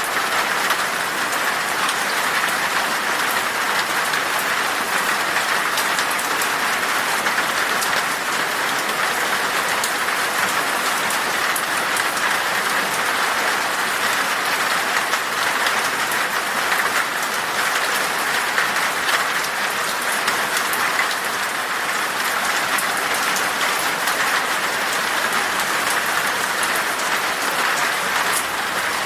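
Steady rain falling in a forest, a dense even hiss with the fine patter of many drops.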